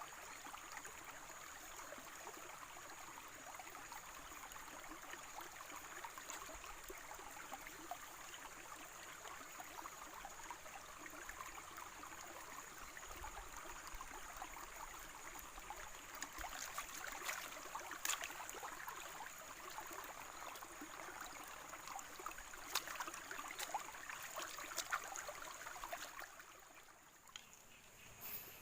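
Steady rush of a small river or stream flowing, with a few sharp clicks or taps around the middle; the rush dips briefly near the end.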